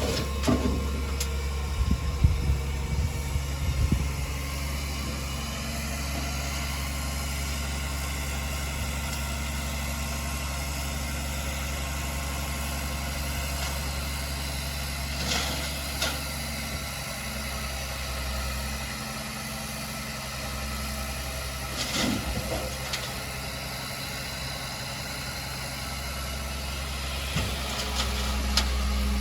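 Diesel engine of heavy earthmoving machinery running steadily at low speed, with a few short knocks: a cluster in the first few seconds and single ones around the middle and near the end. It grows a little louder near the end.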